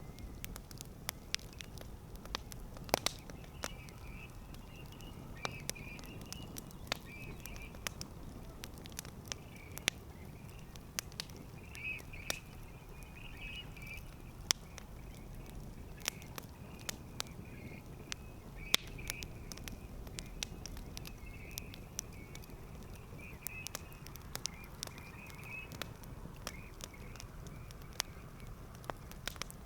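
Campfire burning: wood crackling with irregular sharp pops and snaps, several clearly louder than the rest, over a steady low rumble of the flames.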